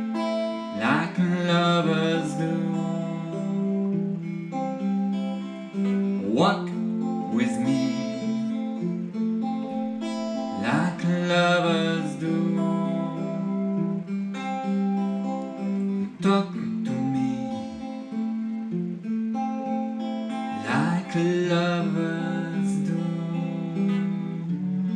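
Acoustic guitar strummed and picked in an instrumental passage, with a full strum roughly every five seconds and notes ringing between them.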